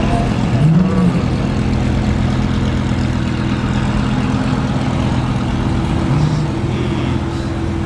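Car engines running at low speed and idling in slow cruising traffic, a steady low drone with a couple of brief rises in pitch.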